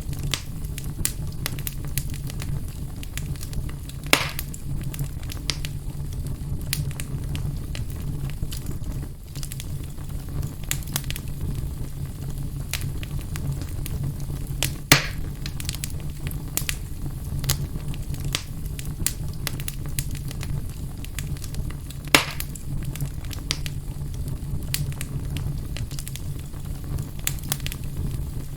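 Fire burning in a fireplace: constant crackling over a steady low rumble, with three louder pops, about 4, 15 and 22 seconds in.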